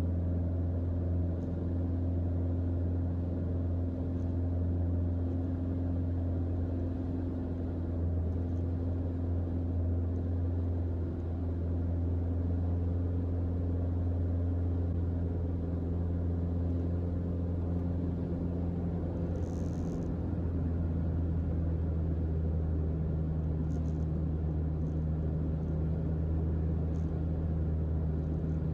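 Cockpit drone of a Mooney M20J's four-cylinder Lycoming engine and propeller in flight, a steady low hum whose tone shifts slightly about halfway through.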